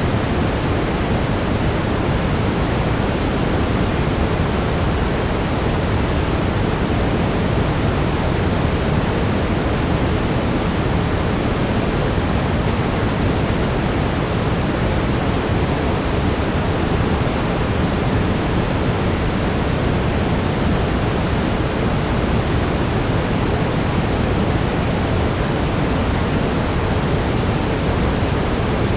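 Steady brown noise: an even, deep rushing hiss, strongest in the low end, unchanging throughout.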